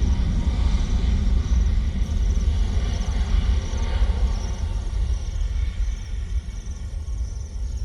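Jet airliner's engines rumbling as the plane climbs away after takeoff; the rumble slowly fades over the last few seconds. Insects chirp faintly in a steady pulsing pattern.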